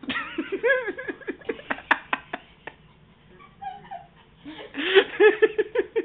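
A person laughing hard in two bouts of rapid ha-ha pulses, the first from the start for about two and a half seconds, the second starting about four and a half seconds in.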